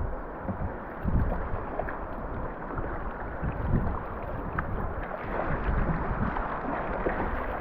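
Fast-flowing river water rushing steadily, with gusts of wind buffeting the microphone.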